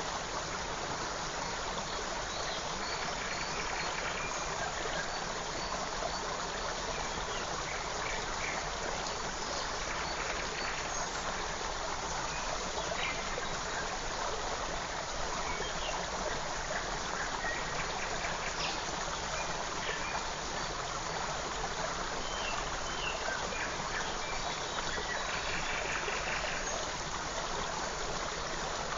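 A forest stream rushing steadily, with small birds chirping briefly now and then above the water.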